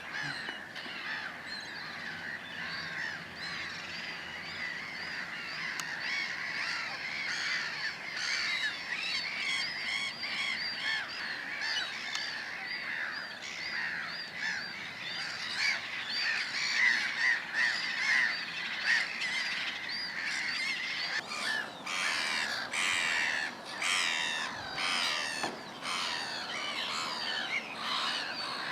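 A dense chorus of many birds calling at once, with rapidly repeated overlapping calls that grow louder and harsher about two-thirds of the way through.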